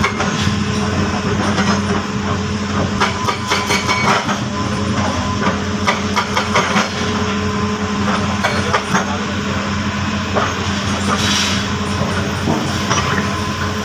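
Heavy diesel engine of an excavator running steadily, with irregular metallic clanks and knocks throughout and a short hiss about eleven seconds in.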